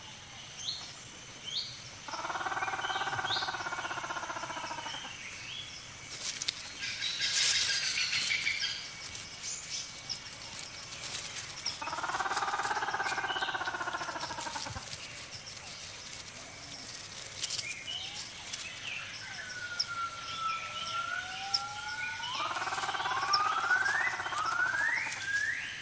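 Forest ambience of birds and insects: a steady high insect whine with scattered chirps, and two long calls of a few seconds each about ten seconds apart. Near the end come several rising whistled glides.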